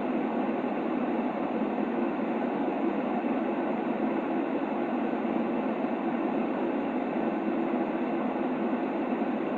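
Steady baby-sleep white noise: an even, low, muffled hiss, strongest in the lower range, that does not change.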